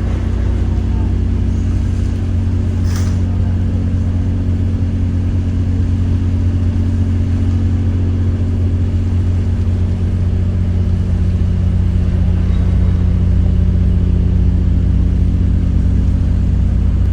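Steady, loud low hum of ship's machinery, with several steady tones layered in it. There is one sharp click about three seconds in.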